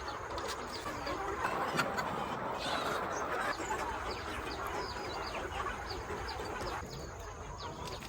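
A flock of chickens clucking, with many short, high falling peeps scattered through it.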